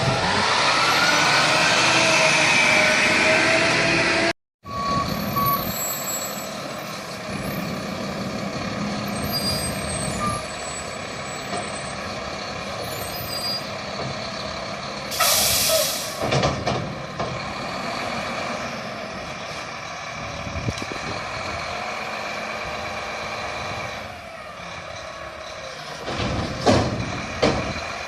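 Garbage truck's diesel engine revving for the first few seconds, then running more steadily after a break. About halfway through comes a short, loud hiss of air brakes, and a few knocks near the end.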